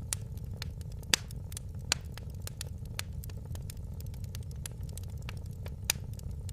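Wood fire in a fireplace crackling, with frequent irregular snaps and a few louder pops, over a steady low rumble.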